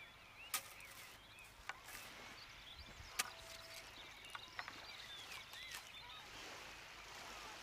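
Faint birdsong, many short chirping calls from several birds, over a soft outdoor hiss, broken by a few sharp clicks, the loudest about half a second and three seconds in.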